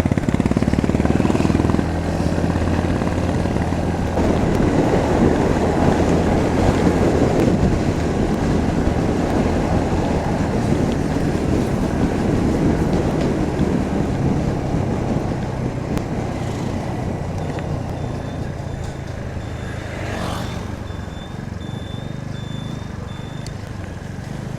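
Motorcycle engine running steadily under way, with wind rushing over the microphone; louder in the first half and easing off later.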